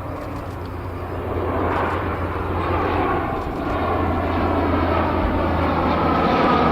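Lockheed P-3C Orion maritime patrol aircraft's four Allison T56 turboprop engines running as it flies by, getting steadily louder as it approaches, with a steady low propeller hum and a whine coming up near the end.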